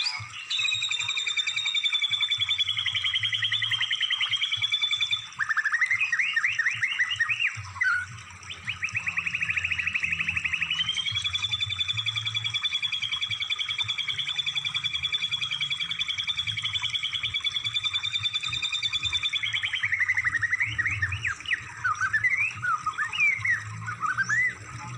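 Recorded songbird song used as masteran song-training material: long, fast trills held for several seconds, broken by quick rising and falling chirps about five seconds in and again near the end. A low hum runs underneath.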